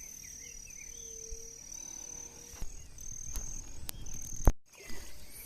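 Insects giving a steady high-pitched trill that stops and restarts every second or so. A few bird chirps come early, and there are several sharp clicks, the loudest about four and a half seconds in.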